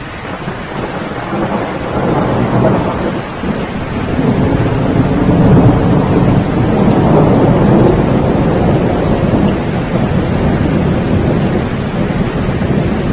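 Steady rain with a long rolling thunder rumble that swells from about two seconds in, is loudest in the middle, and slowly eases off.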